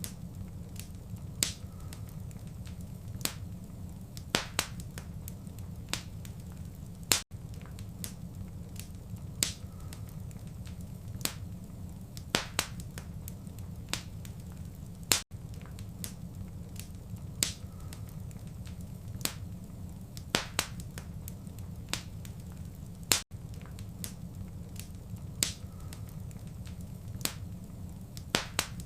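Wood fire in a fireplace crackling, with irregular sharp pops and snaps over a steady low rumble of flame. About every eight seconds the sound cuts out for an instant.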